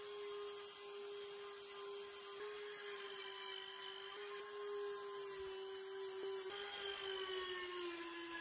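Small electric power tool running steadily with a hissing rub of metal against it, its pitch sagging a little in the last couple of seconds.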